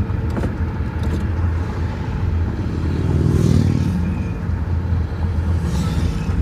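Low, steady engine rumble of slow street traffic, with a louder engine swelling and fading about three to four seconds in.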